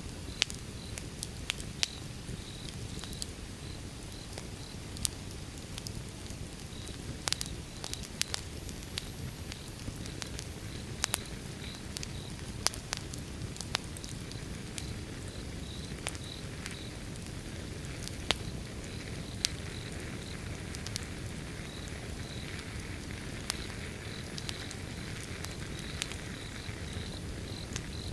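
Wood fire crackling: irregular sharp pops and snaps over a low, steady rush of burning logs. A high, even chirping pulses throughout.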